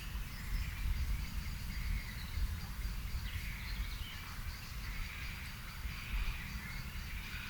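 Birds in a garden calling and singing in short, scattered phrases at a distance over a steady low rumble, with a thin, steady high tone running underneath.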